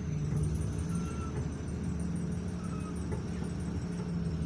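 Commuter train heard from inside the carriage: a steady low rumble with an engine hum and a faint high whine that slowly falls in pitch. A few short, faint chirps come through over it.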